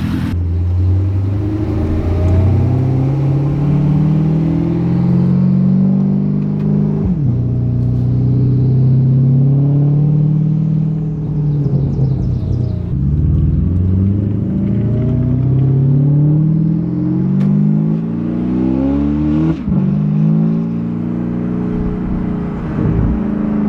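Porsche Panamera Turbo's twin-turbo V8 running through a custom GT3-style stainless exhaust, accelerating through the gears: the engine note climbs in pitch, then drops sharply at each upshift, about four times.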